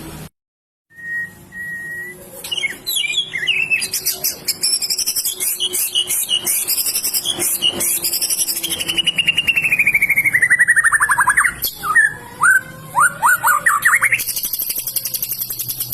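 White-rumped shama (murai batu) in full, energetic song: a fast run of varied whistled phrases and high rapid trills, with a long trill sliding down in pitch past the middle, then short rising notes. The sound drops out completely for about half a second near the start.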